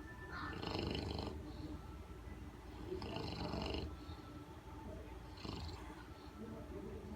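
English bulldog snoring loudly in its sleep: three snores, each about a second long, a couple of seconds apart.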